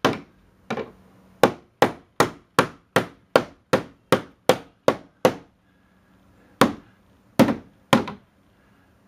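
Hammer blows driving old sash pulleys into a wooden window jamb. There is a steady run of about a dozen strikes at roughly two and a half a second, a pause of about a second, then three more blows.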